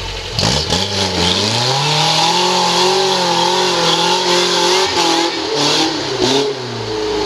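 Off-road buggy engine revving hard under load, its pitch climbing about a second in, wavering up and down, dipping briefly near the middle and climbing again near the end, with a few short knocks over it.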